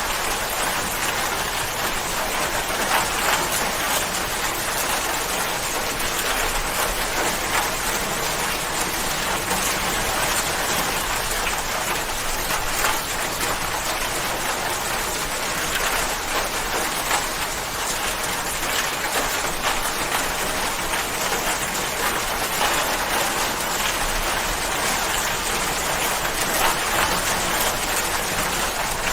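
Steady rain falling, a dense, even hiss with many small drop ticks.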